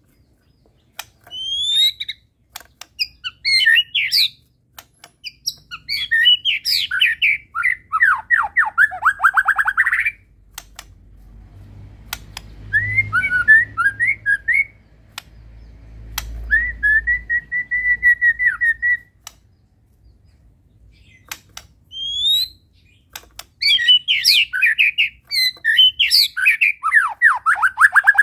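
White-rumped shama (Medan murai batu) singing: bursts of rapid chattering phrases of quickly falling notes, a clear whistled note held about two seconds near the middle, and sharp single clicks scattered between the phrases.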